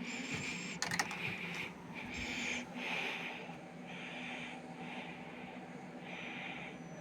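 Zanussi air conditioner running with a steady low hum, under a hissing pulse that repeats about once a second; a sharp click about a second in.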